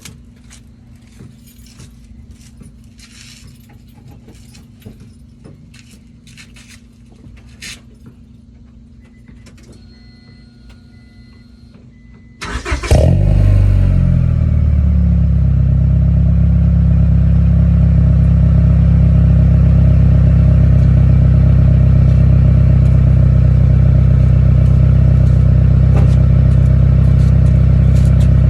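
Keys jingling and a short beeping chime, then the 2000 Honda Accord EX's 2.3-litre four-cylinder engine cranks briefly and starts about halfway through. It settles into a loud, steady idle, heard mainly through the exhaust.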